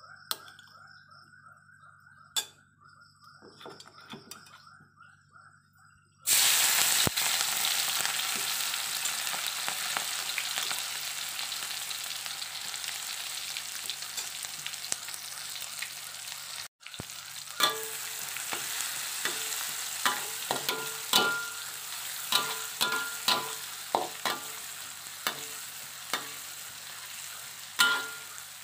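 Ground spice paste hitting hot oil in a wok: a sudden loud sizzle about six seconds in that goes on as steady frying. In the last ten seconds a spatula scrapes and clinks against the wok as the paste is stirred.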